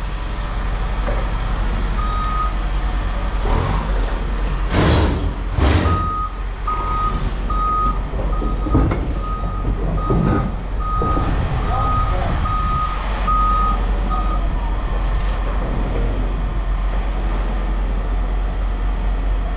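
A heavy vehicle's reversing alarm beeping in a steady repeated pattern over its running diesel engine. The alarm gives one brief beep early, then sounds regularly for about eight seconds before stopping. Two loud knocks come shortly before the long run of beeps.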